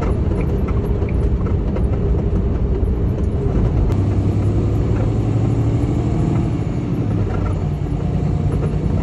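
Semi truck's diesel engine and road rumble, heard from inside the cab as the truck comes off a highway exit. A steady engine hum sets in about four seconds in and shifts in pitch near the end.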